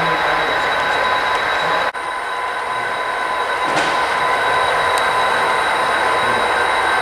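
HO-scale model trains running on the layout: a steady rolling hum of wheels on track with thin steady tones over it. There is a momentary break about two seconds in.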